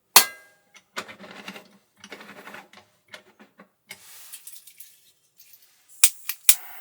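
Small hard objects being handled: a sharp clack that rings briefly, a few seconds of rattling and rustling, a short hiss, then three quick sharp clicks near the end.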